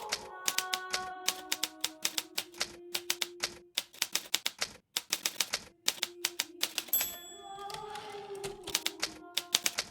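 Hermes Baby portable typewriter being typed on: quick, irregular keystrokes with brief pauses between bursts, with a short break about seven seconds in. Soft sustained background music notes sit beneath the typing.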